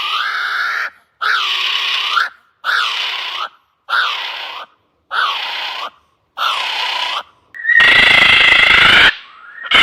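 Kiwi calling: a series of about seven drawn-out notes roughly a second apart, each dipping and then rising in pitch. From about eight seconds in the call is louder and longer.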